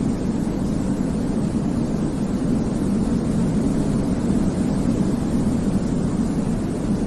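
Steady, deep rushing white noise played as a baby sleep aid, even and unchanging, weighted toward the low end rather than hissing.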